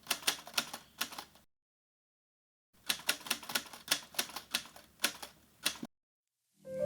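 Typewriter key clacks in two quick irregular runs, the first about a second long and the second about three seconds, with a dead-silent pause of about a second between them.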